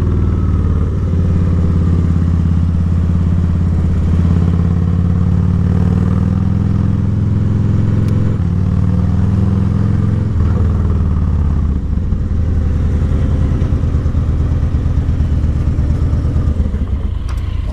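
Harley-Davidson V-twin motorcycle engine running under way, with a steady engine note whose pitch steps down twice, around eight and ten and a half seconds in.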